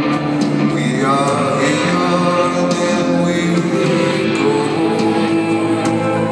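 Live arena rock band playing a slow, moody song, with a male lead vocal coming in about a second in over guitar and sparse drum hits, heard through an audience recording in a large hall.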